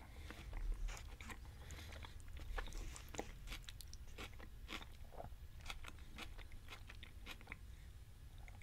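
Close-up chewing of a mouthful of Chipotle beef power bowl: irregular soft crunches and wet mouth clicks.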